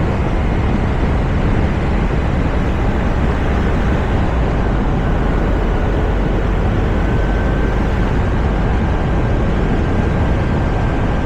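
Steady rush of wind and road noise from a Toyota RAV4 driving, picked up by a camera mounted on its roof. A faint high tone joins about halfway through.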